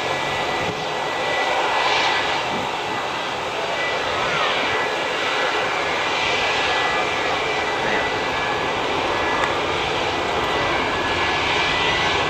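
Airliner engines passing close by: a loud, steady drone with a thin, high, steady whine running through it.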